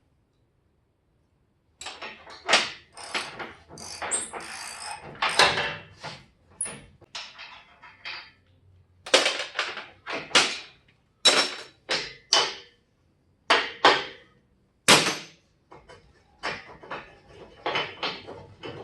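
Irregular clanks and knocks of hands-on work on metal truck parts, with a longer rattling, scraping stretch about four seconds in. The sound starts abruptly after a couple of seconds of silence.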